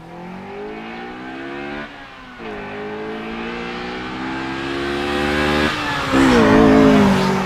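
Honda Civic's B16A1 1.6-litre VTEC four-cylinder accelerating hard through the gears toward the listener. The revs climb, drop at an upshift about two seconds in, climb again to a second upshift near six seconds, then climb once more, growing louder as the car approaches.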